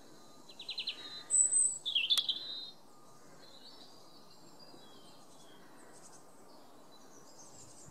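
Woodland songbirds calling: a quick trill of short notes, then a high thin whistle and a short sweeping note in the first few seconds, followed by only faint, scattered high calls.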